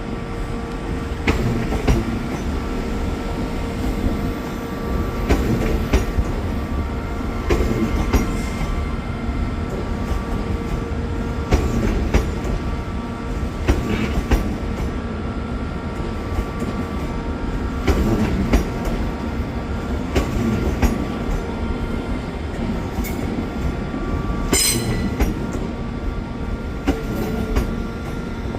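A train running on rails: a steady rumble with a steady whine and repeated sharp clicks from the wheels over rail joints. A brief high squeal comes near the end.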